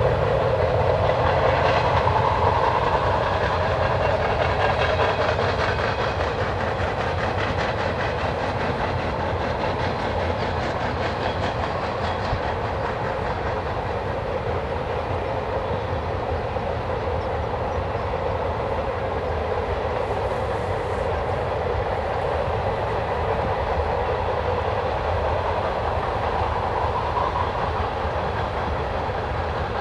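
Freight train cars rolling past with a steady rolling noise and the clickety-clack of wheels over the rail joints. The noise eases slightly over the stretch.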